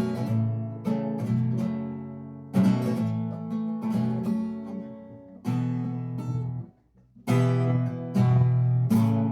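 Acoustic guitar with new strings playing strummed chords in an instrumental passage. The chords ring out and fade between strikes, with a brief near-silent gap about seven seconds in before the strumming picks up again.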